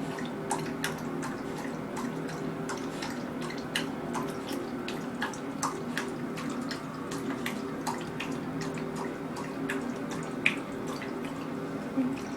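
Dog lapping water from a bowl: a steady, irregular run of short wet laps, several a second.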